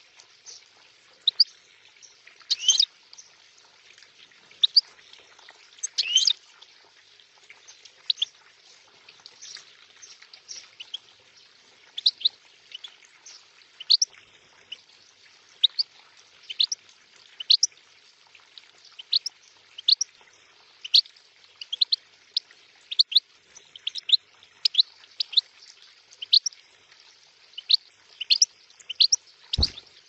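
A small songbird chirping over and over: short, sharp, high calls about one to two a second. Under it runs a faint steady trickle of water from the water feature, and a single knock comes near the end.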